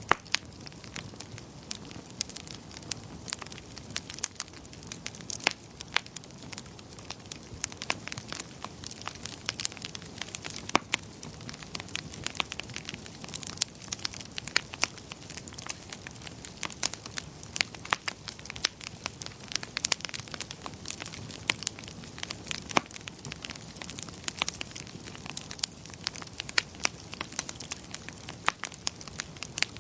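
Wood fire burning in a fireplace: frequent irregular sharp crackles and pops over a steady low rumble of flames.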